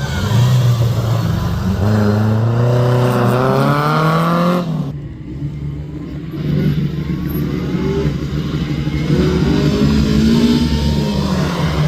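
Rally car engine under hard acceleration, its pitch climbing steadily for about five seconds. It cuts back abruptly as the driver lifts off, then picks up and climbs again.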